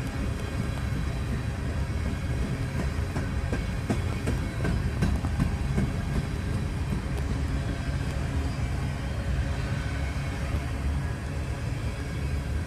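Empty coal train rolling slowly past: a steady low rumble of freight-car wheels on the rails, with scattered sharp clicks and clanks.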